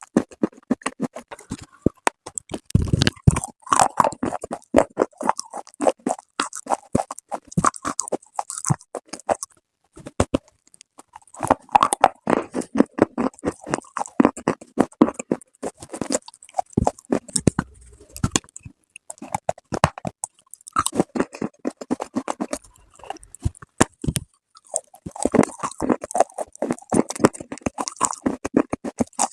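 Close-miked crunching and chewing of dry, brittle clay: runs of rapid crisp crunches with short pauses between mouthfuls.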